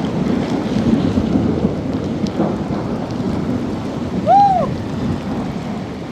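Heavy rain with a steady rumble of thunder. A little over four seconds in, one short call rises and falls in pitch above the downpour.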